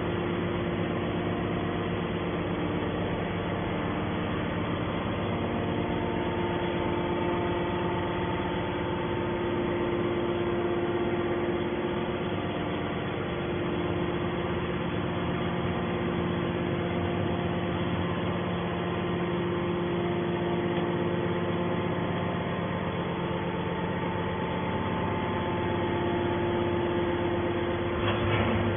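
Hydraulic scrap-metal baling press running, a steady mechanical hum with several steady tones from its power unit.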